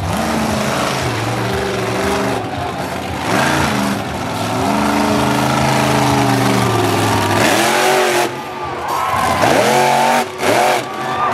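Monster truck engine revving hard, its pitch held high for several seconds, then a string of quick rev blips rising and falling near the end.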